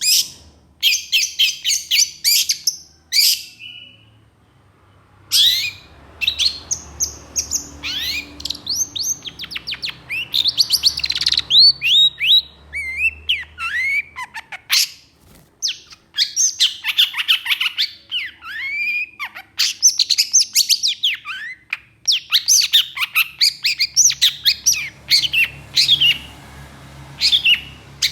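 Long-tailed shrike (cendet) singing in fast, harsh bursts of chattering trills, broken by short downslurred whistled notes, with a brief pause about four seconds in.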